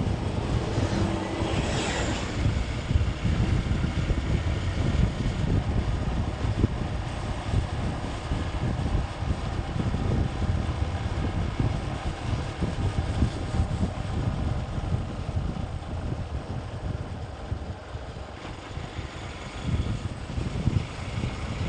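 Motorcycle riding with wind buffeting the microphone, a low gusty rumble over engine and road noise. A brief rushing hiss comes about two seconds in.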